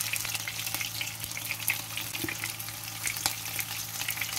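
Batter-coated fish pakoras deep-frying in hot oil: a steady sizzle full of fine crackling pops, over a steady low hum.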